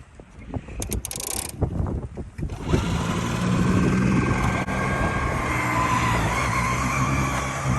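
SnowJoe 100-volt 24-inch two-stage electric snowblower starting up about three seconds in and then running steadily with a low hum and a higher whine, after a few seconds of scattered knocks and shuffling.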